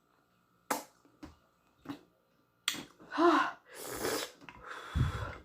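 Close-up eating sounds: a few sharp mouth smacks and clicks, then a short hum, hissing breaths and a low thump near the end. The hissing breaths come as the eater reacts to the chili heat of spicy noodles.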